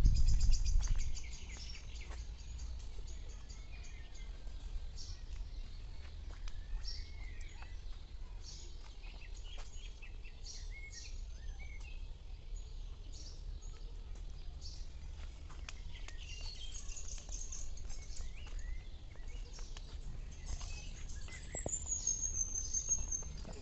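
Birds chirping and calling in short scattered notes over a steady low rumble, with a thin high whistle that falls in pitch near the end.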